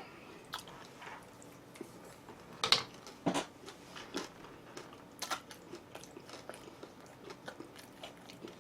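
A person chewing and biting food, with scattered sharp, crunchy clicks, the loudest a pair about three seconds in.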